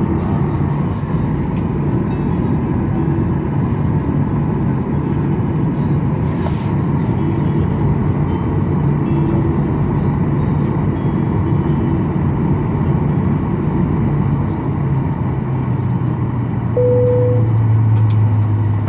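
Steady low hum and rumble inside a parked Boeing 737-800's cabin, with faint passenger murmur. About 17 seconds in, a single chime sounds, the seatbelt sign being switched off, and the low hum then grows louder.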